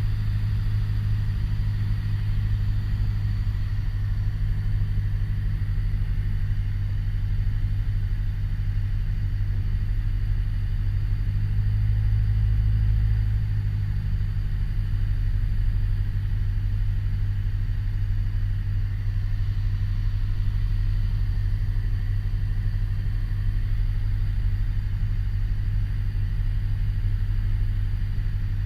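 Piper Warrior's four-cylinder Lycoming engine and propeller droning steadily in the cabin during the climb-out after a touch-and-go, swelling slightly about twelve seconds in.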